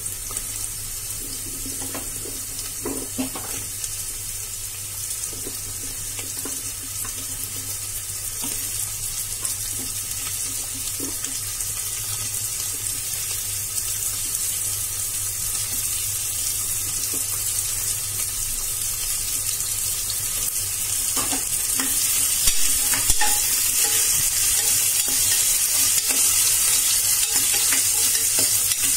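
Sliced onions and potato cubes sizzling in hot oil in a pressure cooker, with a few scrapes of stirring now and then. The sizzle grows louder about two-thirds of the way in.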